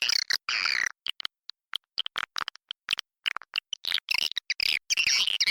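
Edible-nest swiftlets chirping and twittering inside a swiftlet house, in rapid clusters of short, sharp high chirps and clicks broken by brief gaps. This is a swiftlet lure sound, used to draw birds to a nesting house.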